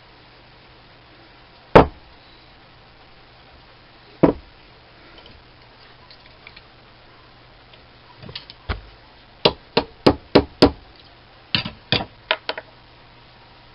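Hammer tapping on a stuck part inside an ENCO 1340 lathe's tool post to drive it back down. Two single taps come first, then quicker runs of taps in the second half.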